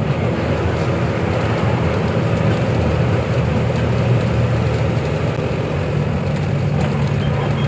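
Lorry's diesel engine running steadily as the truck drives along, a continuous low drone with road rumble.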